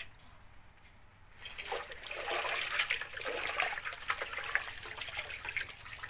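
Water being poured and splashing, starting about a second and a half in and easing off near the end.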